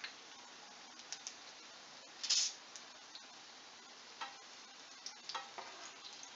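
Potato patties shallow-frying in oil in a nonstick pan, a steady sizzle, with a steel perforated skimmer clicking and scraping against the pan as the patties are turned. A louder burst of sizzling a little over two seconds in.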